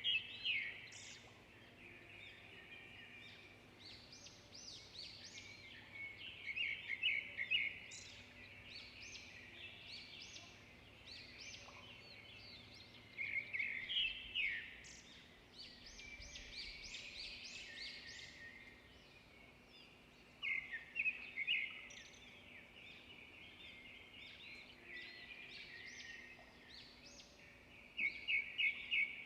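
Songbirds singing: a steady chorus of chirps and trills, with one loud, fast trill phrase that comes back about every seven seconds.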